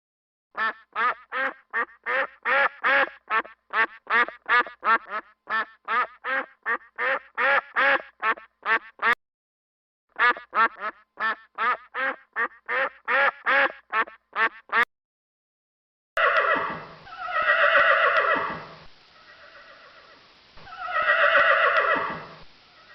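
A duck quacking in rapid runs, about three quacks a second, in two long series. Then, about two-thirds of the way in, a horse neighs twice in long calls.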